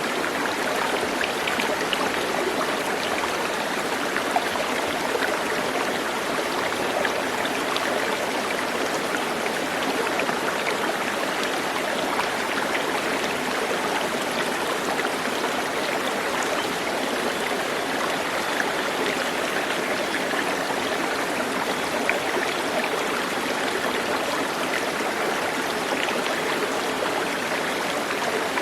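Running water: a steady, unbroken rush of a stream, with a few faint ticks and splashes in it.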